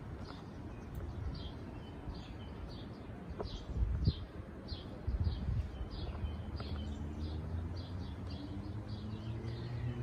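A small songbird chirping over and over, two or three short falling chirps a second, over a low rumble, with a couple of dull thumps about four and five seconds in.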